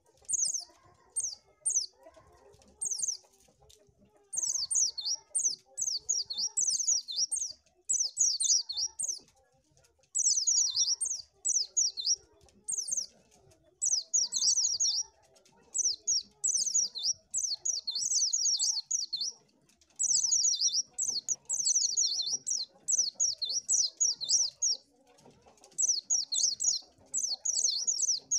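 White-eye (pleci) singing: rapid, high-pitched twittering phrases of quick chirps, repeated in bursts of a second or two with short pauses between.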